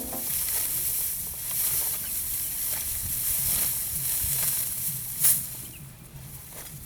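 Steady outdoor hiss with a low hum beneath it, and one sharp click about five seconds in.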